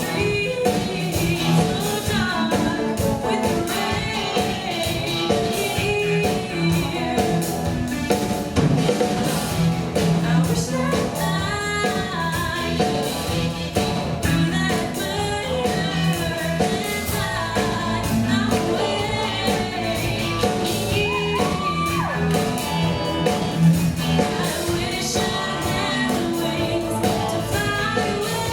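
A singer and band performing a song live, the vocal melody carried over continuous instrumental backing.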